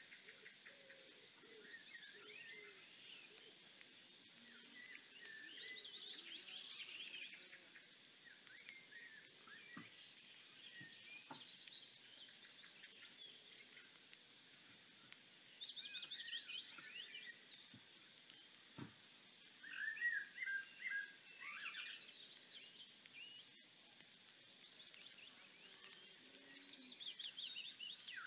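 Faint birdsong: several small birds singing and chirping in repeated short phrases and trills, with a few soft low knocks midway.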